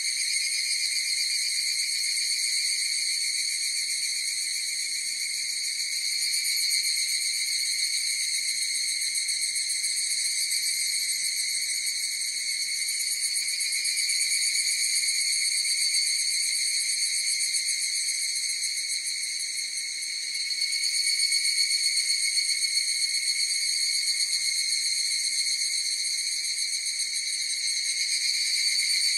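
A chorus of higurashi (evening cicadas, Tanna japonensis) calling: a continuous high, ringing drone that swells slightly a few times.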